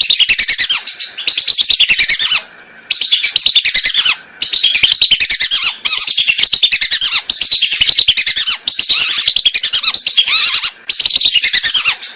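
Whistling duck (belibis) calling as a hunter's lure recording: fast runs of shrill whistled chirps in phrases of one to three seconds, broken by brief pauses.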